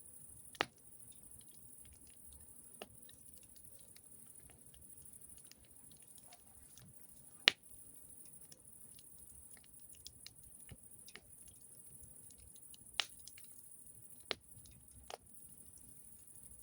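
Wood campfire crackling: scattered sharp snaps and pops at uneven intervals, the loudest about halfway through, over a faint steady hiss.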